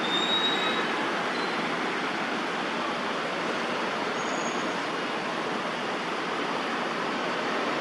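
Steady hiss of distant city traffic, with a few faint, brief high bird chirps near the start and about four seconds in.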